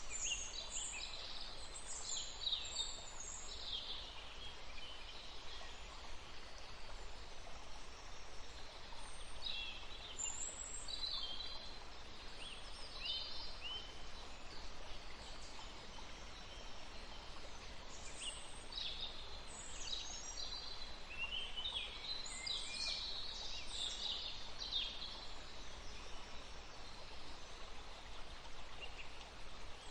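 Small songbirds chirping and trilling in short high-pitched bursts that come in clusters, over a steady background hiss.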